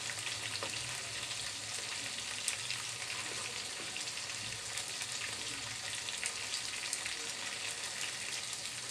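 Marinated chicken pieces sizzling and crackling steadily as they shallow-fry in hot soybean oil in a frying pan.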